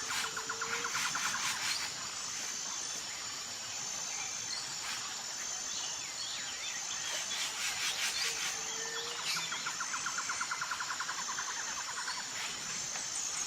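Tropical forest ambience: a high, steady insect drone that keeps breaking off, scattered bird chirps, and a rapid trill heard twice, each time just after a short low whistle.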